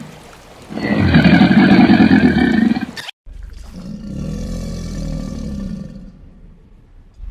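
A large animal gives a loud, rough call lasting about two seconds. After an abrupt cut, a quieter, lower call of about three seconds follows and fades out.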